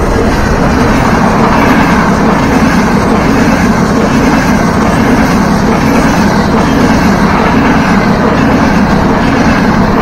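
Frecciarossa high-speed electric train passing close by: a loud, steady rush of wheels on rail and air that starts abruptly as the train reaches the spot and holds level as the cars go by.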